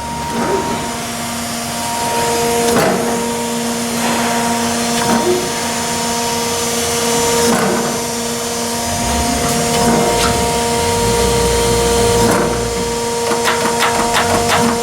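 Chevalier 1628AD surface grinder running, a steady hum of several tones from its drive, with a short knock every couple of seconds as the table and cross-feed reverse at their limit switches. A quick run of clicks comes near the end.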